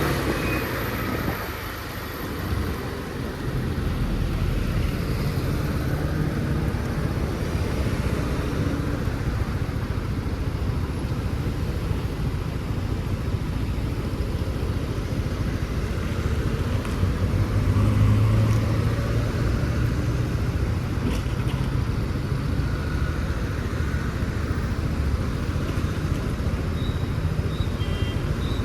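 Riding sounds from a motor scooter in city traffic: a steady low rumble of engine and road noise, with a louder low drone about eighteen seconds in.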